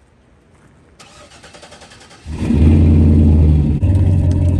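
A vehicle engine cranked over by its starter for about a second, then catching and running steadily and loudly, with a brief dip and a small shift in pitch near the end.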